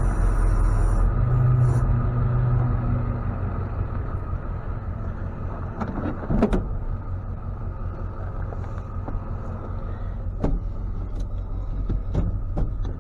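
Pickup truck engine running at low speed, a steady low rumble that is strongest for the first few seconds and then eases. A few sharp clicks or knocks come later on.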